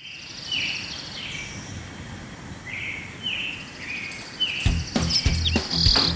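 A bird calling outdoors in short, repeated chirps, each a brief falling note, about one every half second to second. About two-thirds of the way in, a run of sharp knocks and thuds starts and grows louder.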